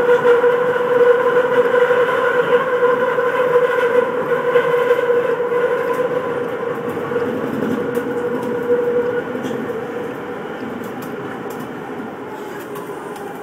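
Tokyu Toyoko Line commuter train running and slowing as it pulls into a station, heard from the front cab. A steady whine over the running noise fades out about nine seconds in, and the sound grows quieter toward the end.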